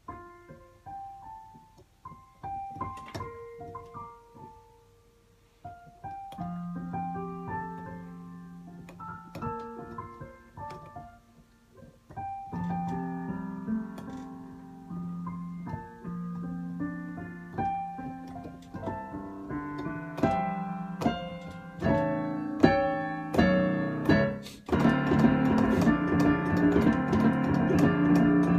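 Piano playing a melody. It starts with sparse, quiet notes and grows busier and louder, then breaks into a dense, loud passage with full chords a little before the end.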